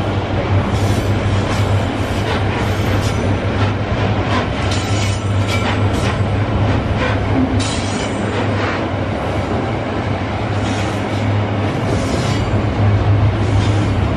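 Loaded freight wagons of a long, heavy train rolling past on the rails, with a steady low rumble, repeated wheel clacks over the rail joints and occasional faint wheel squeal.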